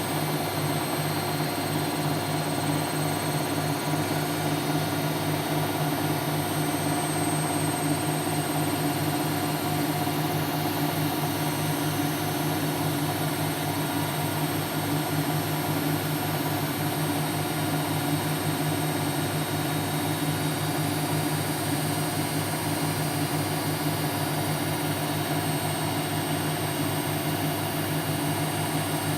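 Siemens Siwamat C10 washing machine spinning, its drum motor giving a steady whir with a constant hum and a thin high whine that hold unchanged throughout.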